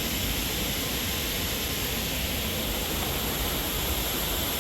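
Steady rushing noise of a ride in an electric golf cart: wind buffeting the microphone and tyres rolling on the trail, with no engine sound.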